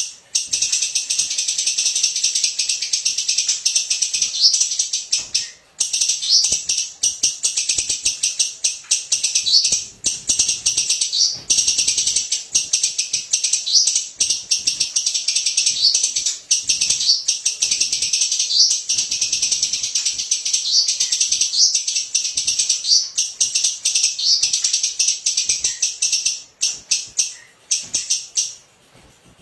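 Songbird singing a long, rapid, high-pitched burst song ('tembakan'), a dense stream of fast chirps and trills broken by a few short pauses, and stopping shortly before the end.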